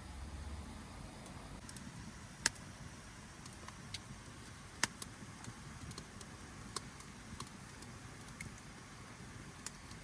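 Campfire of burning wood crackling, with sharp pops at irregular intervals, the loudest two about two and a half and five seconds in, over a low steady background.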